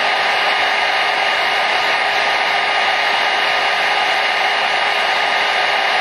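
Hair dryer running steadily: an even, unbroken rush of air with a faint steady motor whine in it.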